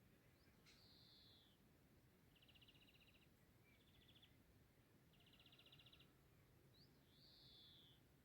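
Faint birdsong: short, clear, slightly falling whistled notes near the start and near the end, with three rapid trills in between, over a faint steady background hiss.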